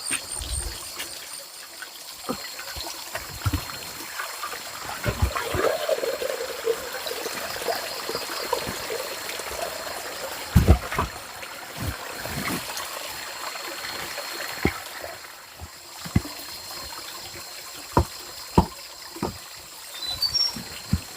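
Water trickling and dribbling steadily, with scattered sharp knocks and clatter, a cluster of them about halfway through and more near the end.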